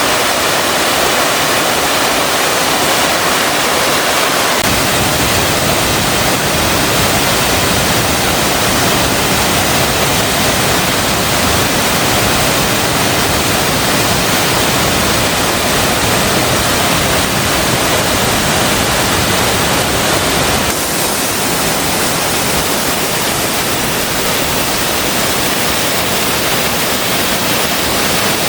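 Cheondang Falls in Cheonbuldong Valley: a loud, steady rush of falling water, with its deep part filling in a few seconds in.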